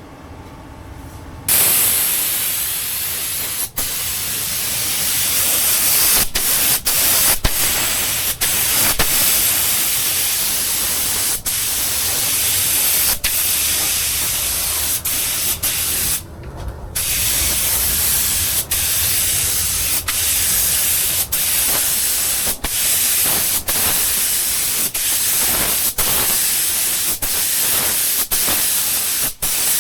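Paint spray gun spraying clear coat with a steady hiss of compressed air. It starts about a second and a half in, with many brief breaks where the trigger is let off between passes and a half-second pause about halfway through.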